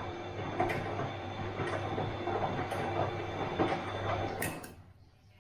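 Bosch washing machine running through its wash: a steady motor hum and drum rumble with a knock about once a second as the drum turns. Near the end it stops abruptly, leaving only a faint hum.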